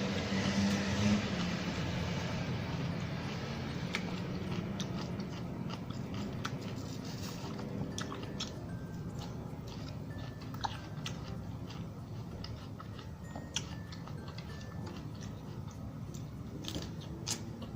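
Close-up chewing and crunching of fresh salad, with many short crisp crunches scattered irregularly throughout.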